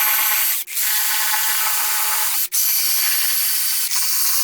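Power ratchet whirring as it spins out the lifter plate bolts on a Ford 300 inline-six, cutting out briefly twice.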